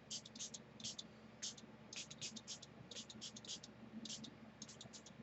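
Small plastic pump spray bottle spritzing pigment-powder spray in many quick short hisses, often two or three in a row.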